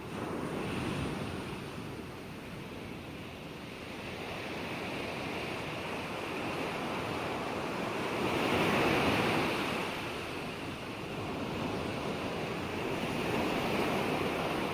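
Ocean waves breaking and washing ashore as a steady surf wash, with the loudest breaker about nine seconds in and a smaller swell near the end.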